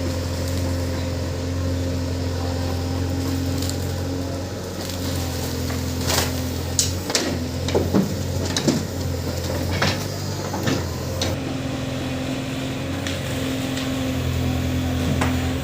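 Heavy diesel engine running steadily, with a series of sharp knocks and clanks from about five to eleven seconds in.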